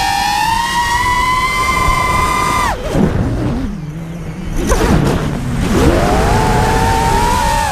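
Whine of a quadcopter's four Racerstar 2205 2600kv brushless motors spinning 4-inch props, rising slowly in pitch under throttle. Almost three seconds in the throttle is chopped and the pitch falls sharply to a low hum with a rush of air, then it climbs back up to a high, steady whine as the throttle is punched again.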